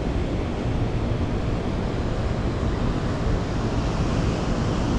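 Steady wind blowing across the microphone, heaviest in the low end, mixed with the rush of fast-moving water.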